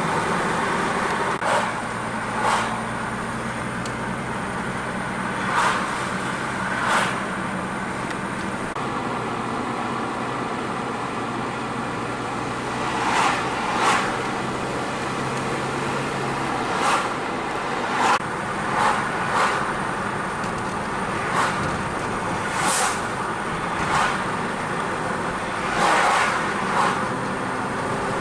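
Car driving on the road, heard from inside the cabin: steady engine hum and tyre noise, with brief swells of noise every second or two.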